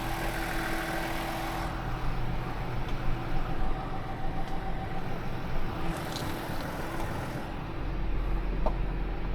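Motor vehicle engine running steadily, with a constant low rumble.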